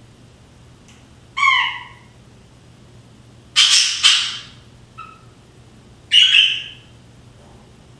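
English budgerigars calling: three loud, short calls a couple of seconds apart, the middle one rough and noisy, with a faint brief chirp between the second and third.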